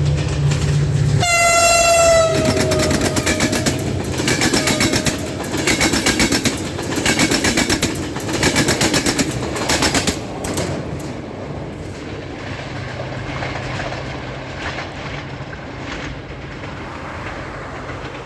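Locomotive horn sounded in a 'horn concert': one long blast starting about a second in, then a string of short blasts up to about ten seconds in, over the fast clickety-clack of the train's wheels on rail joints. After the horn stops, the passing carriages keep rumbling and clattering, more quietly.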